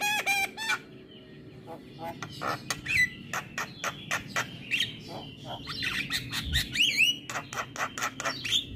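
Javan myna (jalak kebo) calling. It opens with a quick run of harsh, nasal squawks, then gives rapid clicks and ticks mixed with whistled notes that bend up and down.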